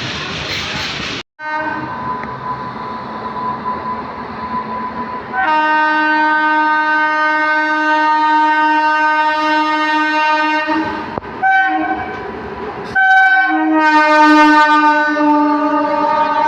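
Train running on the track, then an Indian Railways locomotive horn sounding. It gives a long blast of about five seconds, two short blasts, and another long blast near the end.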